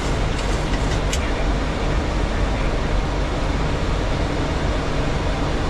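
Steady cockpit noise of a Boeing 737 in flight on approach: the even rush of air over the airframe and from the air conditioning, with a faint click about a second in.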